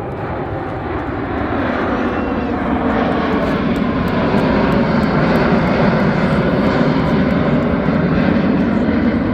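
Airplane engines growing louder as low-flying aircraft approach, then holding at a steady loud level.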